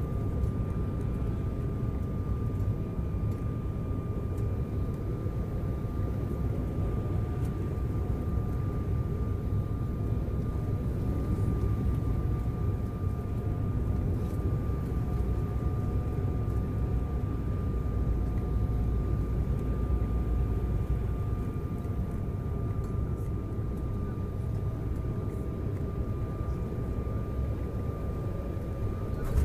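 Cabin noise inside an Embraer 190 jet airliner: a steady rumble of engine and airflow with a thin, steady whine above it.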